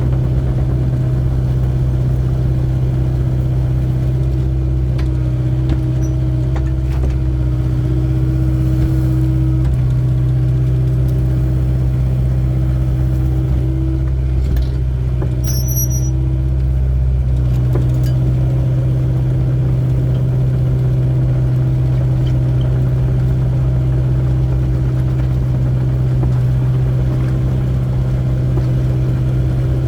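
Excavator diesel engine running steadily while digging, a constant low drone with a fainter higher tone that fades out around a third of the way in and comes back.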